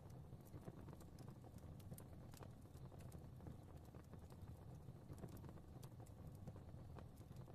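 Fireplace fire crackling softly: irregular small pops and snaps, several a second, over a low steady rumble of flame.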